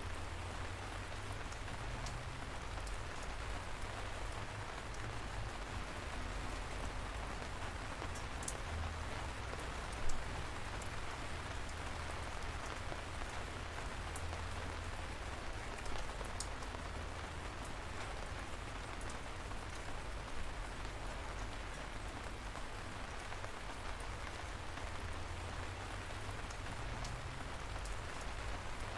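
Steady light rain falling, an even hiss with a low rumble underneath and scattered individual drops ticking, one louder drip about ten seconds in.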